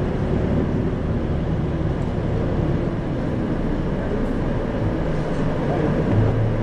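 Cabin running noise of an Isuzu Erga city bus (2RG-LV290N4) on the move: a steady low diesel engine hum under road and drivetrain noise. Near the end the engine hum grows stronger.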